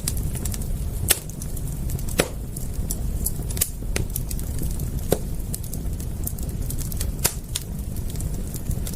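Wood fire crackling: sharp, irregular pops and snaps, a few loud ones about a second or two apart among many fainter ticks, over a steady low rumble.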